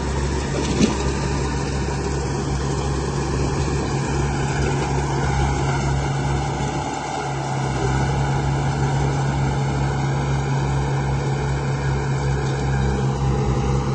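Radio-controlled model construction vehicle running with a steady, low engine-like drone, and a single sharp click about a second in.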